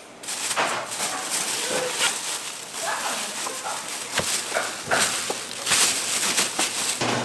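Kitchen work sounds: repeated clattering and knocks over a steady hiss.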